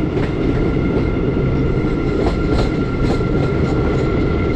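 Indian Railways passenger train running at speed, heard from an open coach doorway: a steady, heavy rumble of wheels on rails, with a few sharp clicks from rail joints and a faint steady whine above it.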